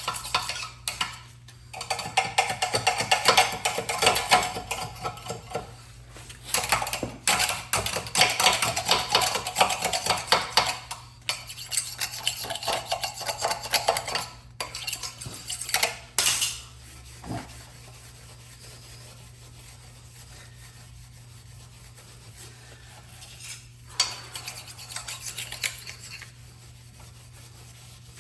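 Metal parts and tools clinking and scraping in several stretches of rapid rattling work, with quieter pauses between them. A steady low hum runs underneath.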